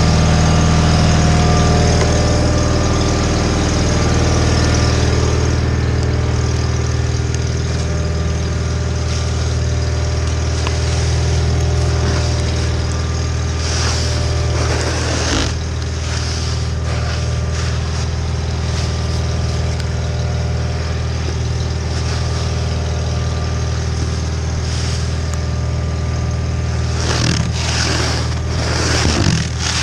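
John Deere 318 garden tractor's Onan two-cylinder engine running steadily under load while clearing snow with the front snowblower. Scraping noises come in now and then in the second half.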